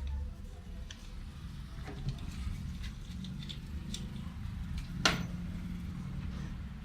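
Scattered light clicks and taps, with one sharp knock about five seconds in, over a low steady hum.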